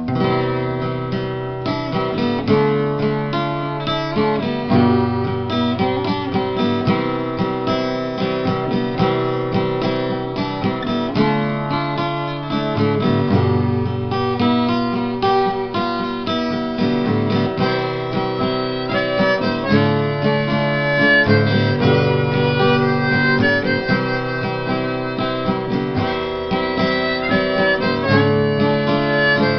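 Acoustic guitar and harmonica playing an instrumental folk passage without singing, starting abruptly.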